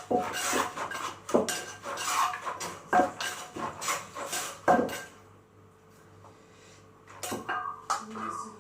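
A spoon and pestle clink and knock irregularly against a mortar as a Thai pounded salad is mixed. The knocking stops for about two seconds, then starts again near the end.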